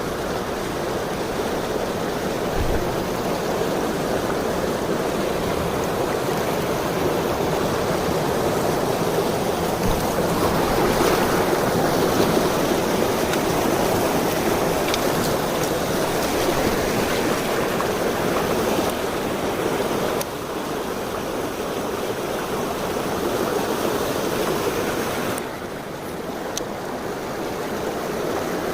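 Mountain stream water rushing steadily, a continuous loud rush of flowing water that dips a little in level twice in the last third.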